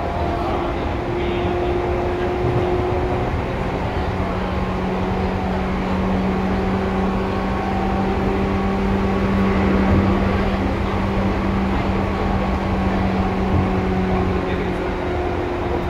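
Seibu 2000 series electric commuter train running at steady speed, heard from inside a passenger car: a continuous rumble of wheels on rails under a steady low hum.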